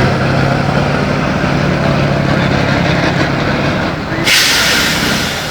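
Tatra 813 truck's air-cooled V12 diesel running steadily under load. A little after four seconds the engine note drops and a loud burst of compressed air hisses out, like an air-brake release.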